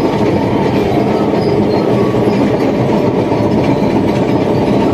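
Caterpillar D8T crawler bulldozer travelling in third gear: its diesel engine and steel tracks run steadily and loudly.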